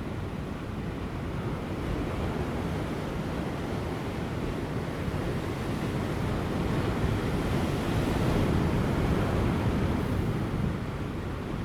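Large ocean waves breaking on offshore rocks in a continuous rushing surf, building to a louder surge about two-thirds of the way through and then easing back. Light wind blows over the microphone.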